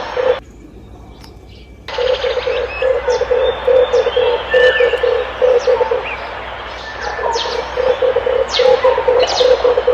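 Red turtle dove cooing in rapid low pulsed runs, several pulses a second. One run starts about two seconds in and breaks off, and a second run follows a second or so later. Other small birds chirp high above it.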